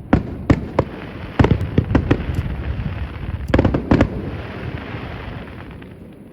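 Aerial fireworks shells bursting in quick succession, heard from a distance: about a dozen sharp bangs in two clusters, with a rolling rumble between them that fades out near the end.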